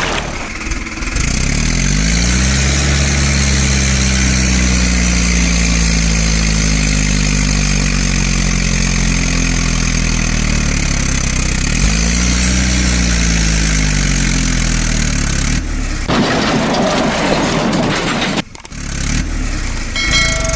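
John Deere tractor's diesel engine revving up and holding at high revs, dipping briefly and revving up again about twelve seconds in. About sixteen seconds in, a rougher, noisier sound takes over.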